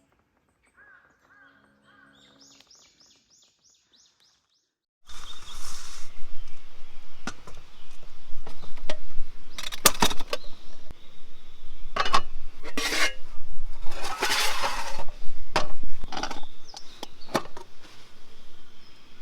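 After about five seconds of near silence, close handling noises of camp cookware begin: repeated sharp clinks, clicks and rustling over an outdoor forest background, as a flameless-cooking mess tin of rice is opened and checked.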